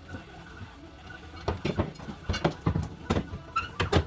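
A quick, irregular run of knocks and clunks, about a dozen strokes, starting about a second and a half in.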